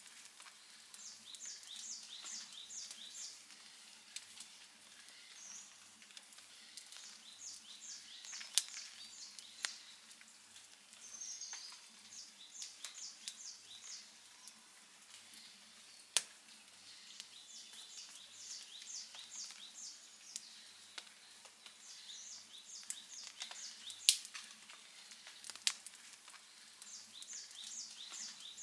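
Campfire crackling softly, with a handful of sharp pops standing out. Behind it, a short high chirping phrase repeats about every five seconds.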